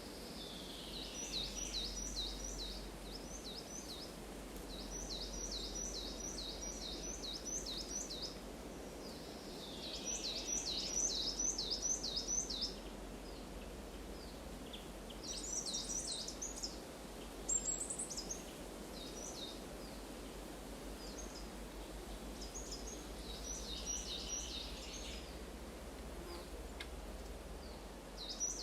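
A songbird singing repeated short phrases, each a quick run of about five to eight high, down-slurred notes, every few seconds, over a steady low background noise.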